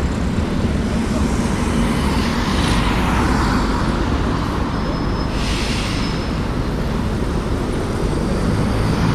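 Street traffic: a steady low engine rumble, with vehicles passing twice, about two to three seconds in and again about five and a half seconds in, and a faint high whine during the second pass.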